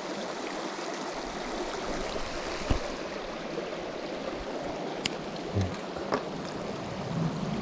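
A stream running with a steady rushing sound, with a few light clicks and knocks.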